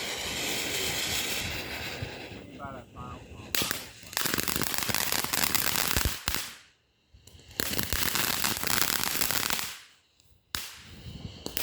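Consumer ground firework going off: a hiss first, then two long runs of rapid, loud crackling like a string of firecrackers, with a short gap between them, and a sharp crack near the end.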